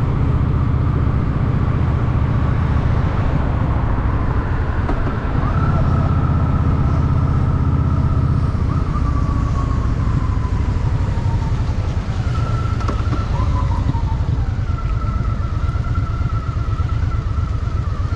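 Honda Shadow VT750's V-twin engine running steadily under way, a deep pulsing rumble. A higher whine over it slides down in pitch twice in the middle.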